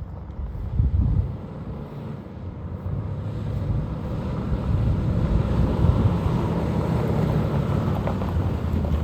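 2014 Ram 1500 pickup truck's engine running, a low uneven rumble that gets louder a few seconds in, with wind buffeting the microphone.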